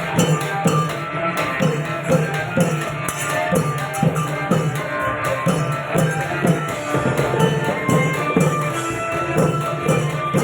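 Thai klong yao long-drum ensemble playing a steady, driving rhythm. The deep drum strokes come about twice a second, over continuous jangling of hand cymbals.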